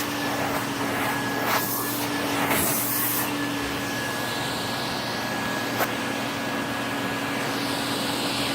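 Vacuum cleaner running steadily with a constant hum and whine, being used to groom a cat through a covered hose. A few brief louder hissing rushes come in the first three seconds, and a single sharp click about six seconds in.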